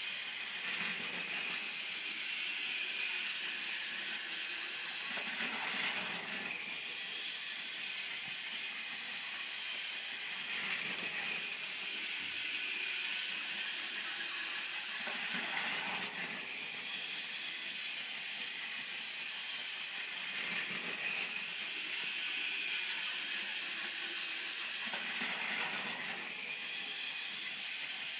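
Tomy Super Rail Shinkansen Series 0 toy train running on its plastic track: the small electric motor and gears in the centre car buzz steadily, with a clatter of wheels on the rails. The sound swells and fades about every five seconds. The motor car is weighted with washers so that its wheels grip instead of slipping.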